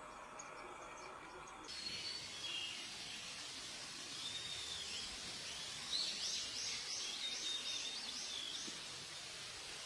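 Birds calling outdoors over a steady background hiss. There are a few scattered curved high notes, and about two-thirds of the way in a run of about eight quick, evenly repeated high notes.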